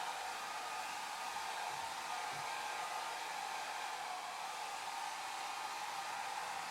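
Hair dryer running steadily: an even, unbroken rush of air with a faint steady motor whine.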